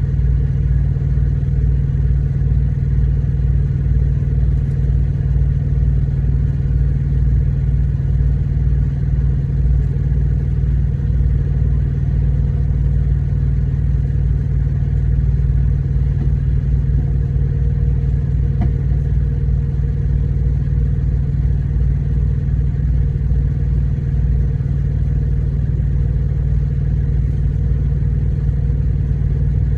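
A vehicle engine idling steadily: a loud, even low drone with a throbbing bottom end.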